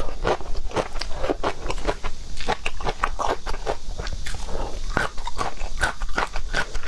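Close-miked mukbang eating of seafood: a person biting and chewing, with many quick, irregular wet clicks.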